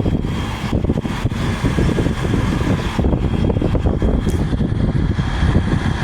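Haier 5,000 BTU window air conditioner running on high fan: a loud steady rush of air with a thin, steady high whine over it.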